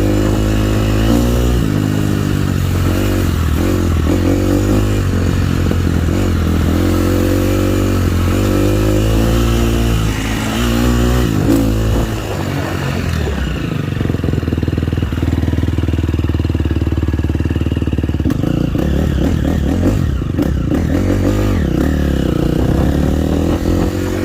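Motocross dirt bike engine revving up and easing off again and again, as when ridden through the gears on a track. For several seconds past the middle it drops to a steadier, lower note, then climbs and falls again near the end.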